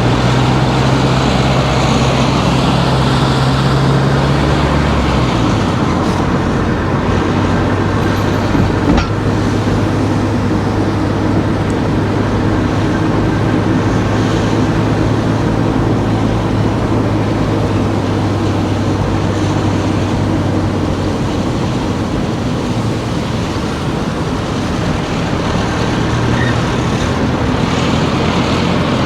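Car driving through town streets: a steady engine hum and road noise heard from the car, the engine note shifting down about five seconds in and again later. There is a single short click near the first third.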